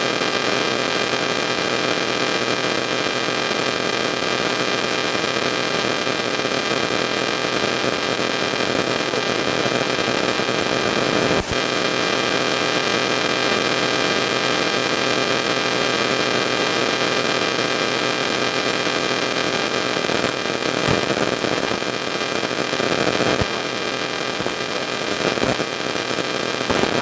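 Steady hiss with electrical hum: recording and room noise. A single sharp click about eleven seconds in.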